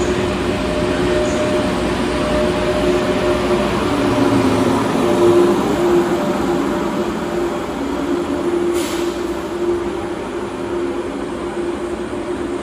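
Frecciarossa high-speed electric train running past and moving away: a steady rumble of wheels on rails with a constant hum. A brief hiss about nine seconds in.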